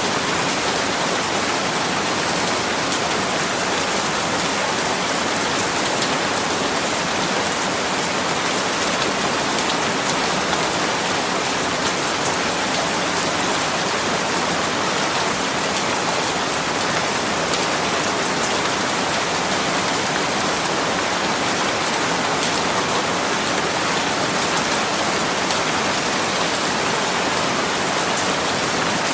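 Steady rain falling on a surface, an even hiss with faint small drop ticks and no changes in intensity.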